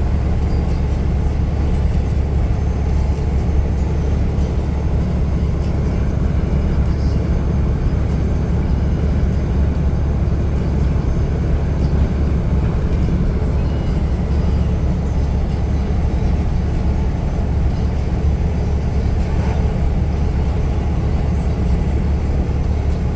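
Steady low drone of a truck on the move heard from inside the cab: engine and road rumble, unchanging throughout.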